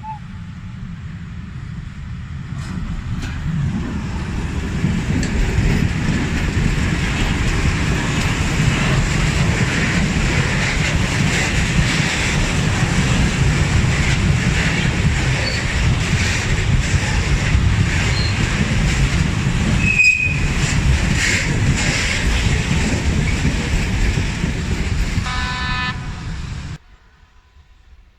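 A train running past at close range: a heavy rumble that builds over the first few seconds and then holds steady. There is a brief high tone about twenty seconds in and a short pitched tone near the end, then the sound cuts off abruptly.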